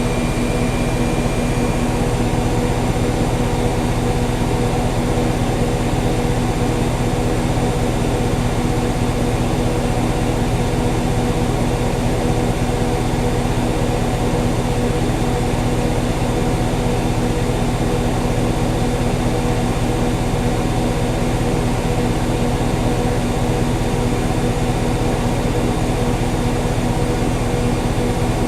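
Whirlpool Duet Sport front-load washer in its spin cycle, the drum and motor running at a steady speed with a constant hum and whir.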